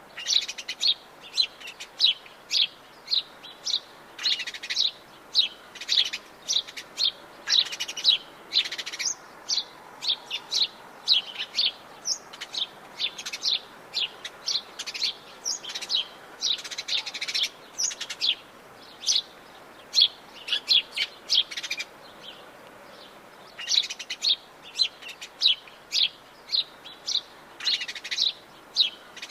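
Wild birds chirping and singing: a dense, continuous run of short, high chirps from several birds, with a brief lull a little over twenty seconds in.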